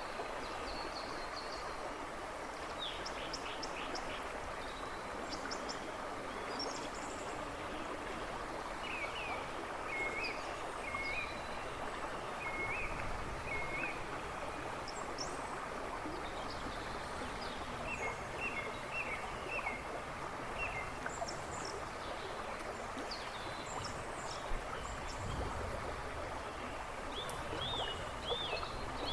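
Shallow river splashing and rushing steadily over stones, with small birds singing in woodland behind it: repeated short, hooked notes in runs of four or five, and scattered high chirps.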